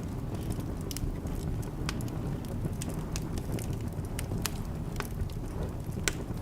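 Wood fire crackling in a fireplace: a steady low rumble under irregular sharp pops and snaps, with one louder pop about six seconds in.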